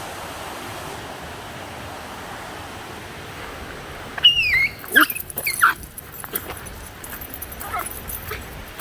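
A dog whining: a few short, high cries that fall in pitch, starting about four seconds in, with fainter ones near the end, over a steady hiss.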